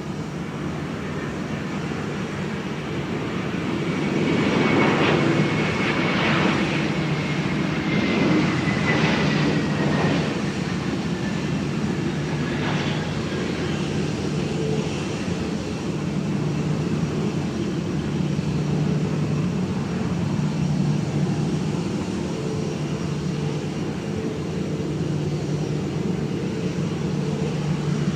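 Jet noise from an arriving Jetstar Airbus A321 with IAE V2500 turbofan engines, swelling from about four seconds in. A high whine falls slowly in pitch as the aircraft passes.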